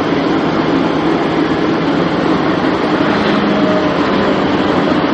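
Steady, loud rumble of a moving vehicle, without pauses or sudden impacts.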